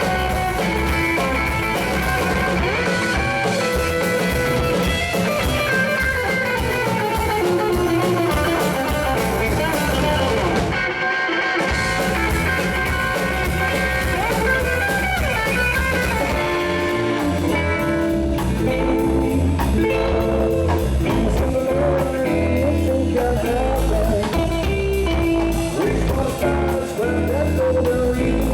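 Rock and roll band playing live: electric guitar, bass and drums, with singing. The music drops out briefly about eleven seconds in, then carries on.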